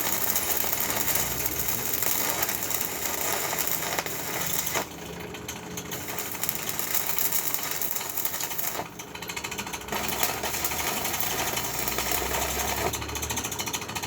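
Electric arc welding on steel foundation bolts: the arc crackles and buzzes steadily, easing off briefly about five seconds in and again about nine seconds in.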